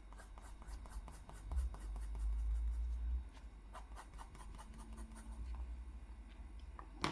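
Drawing strokes scratching on paper, a quick run of short strokes. A low rumble of handling noise comes partway through, and a sharp click at the very end.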